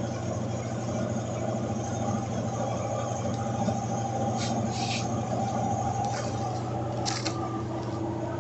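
Electrolux LT10B washing machine running with a steady motor hum, with a few short hisses about halfway through and again near the end.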